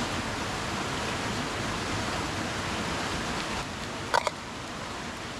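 Chicken bacon and eggs sizzling in oil in a frying pan, a steady hiss, with a sharp metallic clink about four seconds in.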